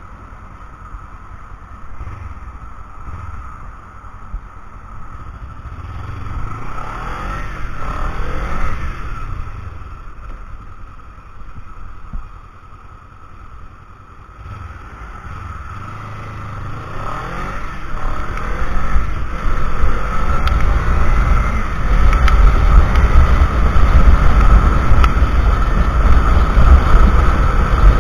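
Kawasaki Ninja 300 parallel-twin engine while riding, heard through a cheap action camera's microphone. Its pitch rises and falls a couple of times as it revs through the gears. Wind buffeting the microphone grows much louder in the second half as speed builds.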